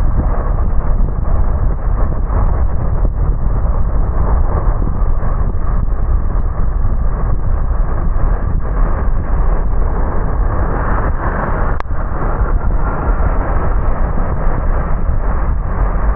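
Car driving on a rain-wet road: steady tyre and road noise over a heavy low rumble, with a sharp click about twelve seconds in.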